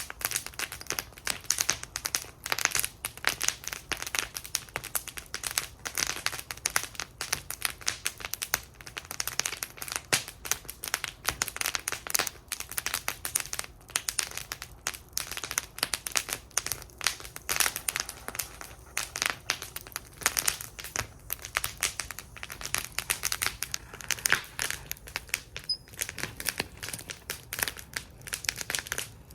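Wood fire burning in a fire bowl, crackling and popping with many quick irregular snaps over a low steady hiss.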